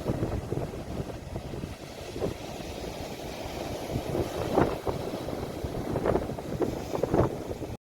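Sea waves washing, with wind rumbling on a phone's microphone. The sound cuts out abruptly for a split second near the end.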